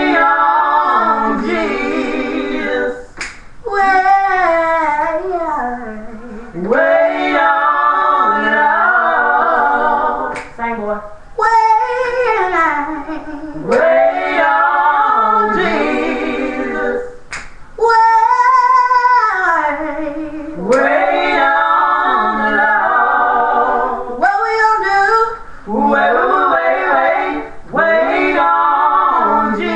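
A woman singing a gospel song alone, in long phrases that glide up and down in pitch, broken by short pauses for breath.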